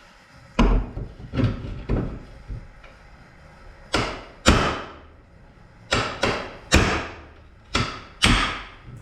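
A hammer striking a socket extension on a wrench, about ten sharp metal-on-metal blows at an uneven pace, each ringing briefly. The blows are meant to shock a stuck fastener loose.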